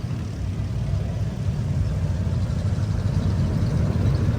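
Vehicle engine running as it drives, a steady low drone that grows slightly louder.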